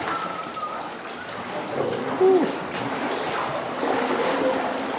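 Water splashing and trickling around a sea canoe as it is paddled along.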